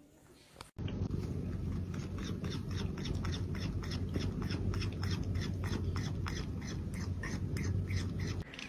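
A pet making a quick repeated sound, about four short clicks a second, over a steady low hum.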